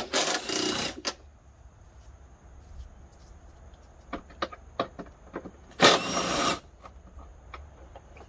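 A handheld power tool running in two short bursts, about six seconds apart, as it spins 12 mm bolts out of the intake, with light clicks and clinks of tool and metal between.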